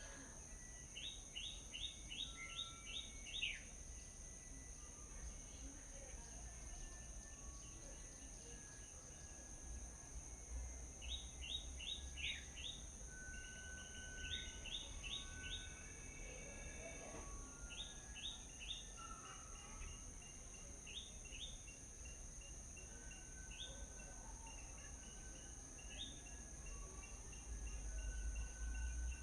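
Small birds calling: several bursts of quick, rapidly repeated downward-sweeping chirps, with short plain whistled notes in between. Beneath them run a steady high-pitched hum, like insects, and a low outdoor rumble.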